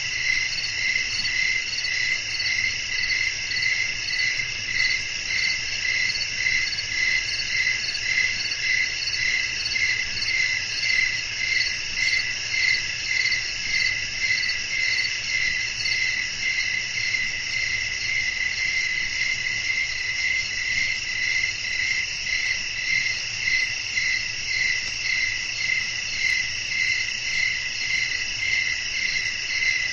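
A chorus of crickets chirping in an even rhythm of about two pulses a second, over a steady high trilling of other insects. There is a faint low rumble underneath.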